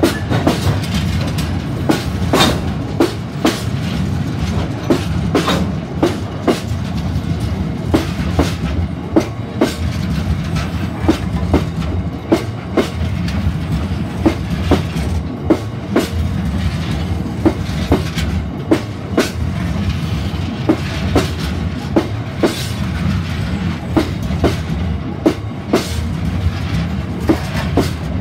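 A freight train's open box wagons rolling past at steady speed: a constant rumble of wheels on rail with sharp clicks and clacks repeating in a regular rhythm as the wheelsets cross rail joints.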